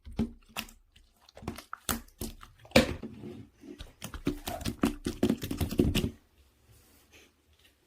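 Hands squishing and poking a soft pudding-jelly slime: a rapid run of wet, sticky clicks and squelches for about six seconds, then only a few faint ones.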